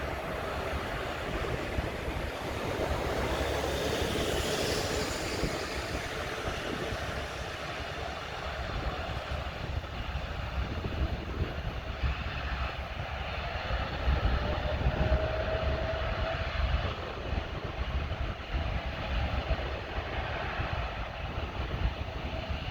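Jet airliner passing over, its engine noise swelling to a peak about four to five seconds in and then easing, with a faint rising whine later on and a gusty low rumble underneath.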